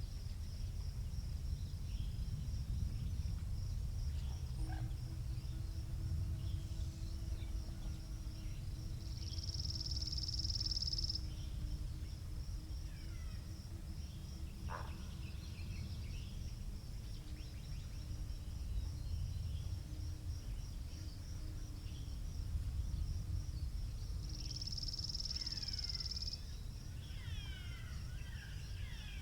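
Outdoor country ambience: wind rumbling on the microphone under a steady, pulsing high-pitched trill that grows louder twice for a couple of seconds, with scattered small bird chirps near the end and a faint distant engine hum in the middle.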